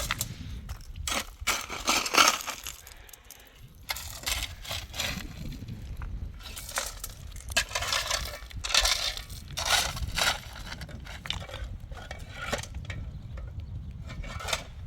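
Irregular crunching and scraping, with a short lull about three seconds in.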